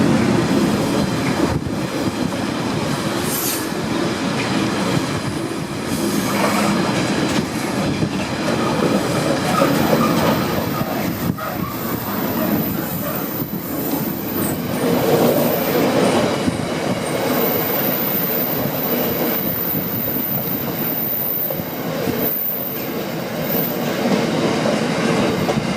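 A train running by on the line, its wheels clattering over the rails, with a thin high wheel squeal from about ten seconds in.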